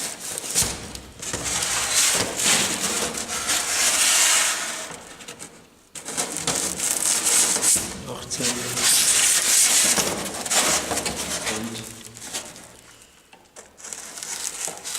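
Rubbing and scraping noises with short squeaks, typical of a 1 cm styrofoam board being handled, cut and pressed into place, in two long stretches with a quieter pause between them.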